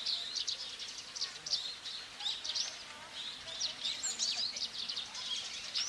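Many small birds chirping and twittering, with short, quick, high calls overlapping one another without pause.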